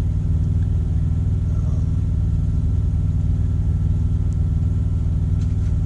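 Semi-truck diesel engine idling steadily, a constant low rumble.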